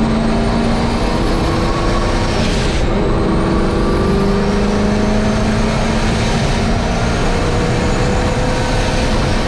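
Turbocharged engine of a 1951 Chevy race truck running hard on track, heard from inside the cab, its pitch climbing slowly, with a brief break about three seconds in.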